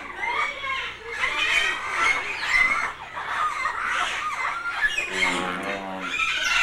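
Captive birds calling in a bird park: a dense chorus of short, overlapping squawks and clucking calls that keeps going without a break, with a lower call around five seconds in.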